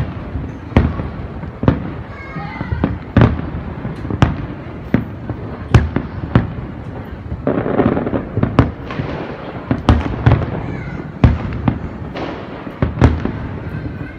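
Aerial fireworks shells bursting in the sky: sharp bangs about once a second, some in quick pairs, with a denser spell of crackling around the middle.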